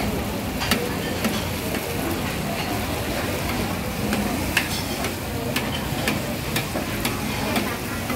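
Noodles sizzling on a hot flat steel griddle as they are stir-fried. Metal tongs and a spatula give irregular sharp clicks and scrapes against the griddle, about once a second.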